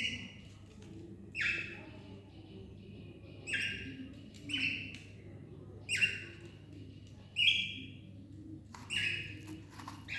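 Cockatiel giving repeated short contact calls, about seven in all, roughly one every second and a half, each a brief steady-pitched shrill note.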